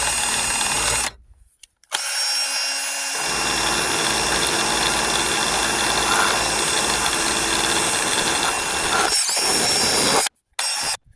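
Handheld electric drill running with a paint-stripping attachment against the truck's steel body panel, taking off paint and surface rust. It runs about a second, stops, starts again and runs steadily for about eight seconds, then stops, with a brief burst near the end.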